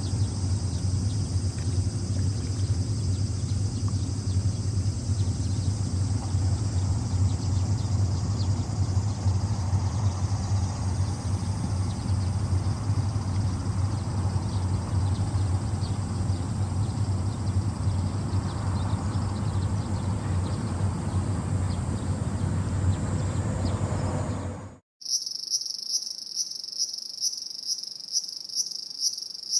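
A steady low rumble with a faint insect trill high above it, then, after a sudden cut about 25 s in, crickets chirping in a steady pulsing rhythm of about two to three chirps a second.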